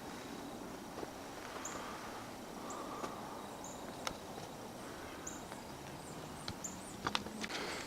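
Faint outdoor ambience with a small bird's short, high chirps repeating every second or so, and a few sharp clicks near the middle and end.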